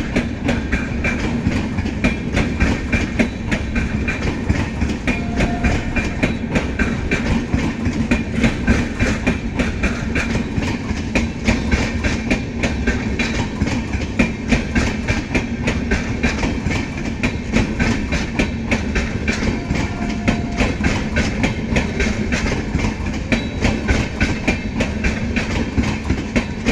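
Passenger coaches of the Ajmer–Puri Superfast Express rolling past, their wheels clattering steadily over the rail joints in a rapid clickety-clack over a low rumble.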